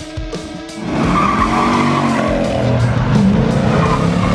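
Rock music, then about a second in a louder burst of car sound takes over: an engine revving up and down with tyres squealing, mixed with the music.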